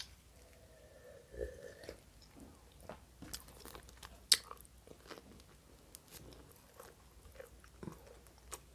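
Close-miked eating sounds: a swallow of juice from a glass, then a bite into a piece of bread about four seconds in, followed by chewing with small wet clicks and smacks.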